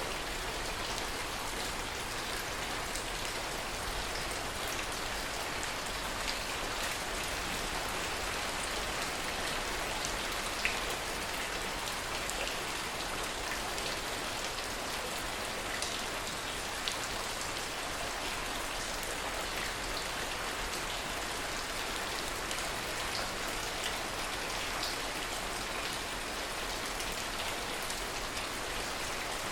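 Heavy rain falling steadily, a dense, even hiss with a few louder single drop hits standing out now and then. No thunder.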